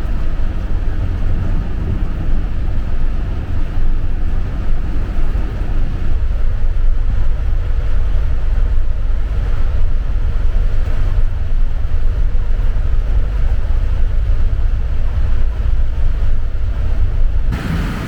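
Heavy rain in a thunderstorm with wind buffeting the microphone: a loud, steady noise heaviest in the low end, which changes abruptly near the end.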